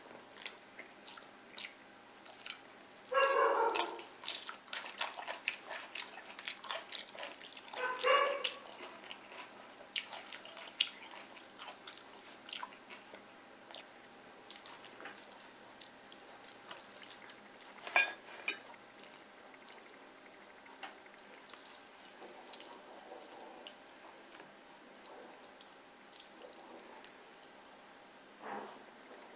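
Close-up wet chewing and mouth clicks of a person eating fried fish and rice by hand, with many small smacks and a few louder wet mouthfuls about three, eight and eighteen seconds in.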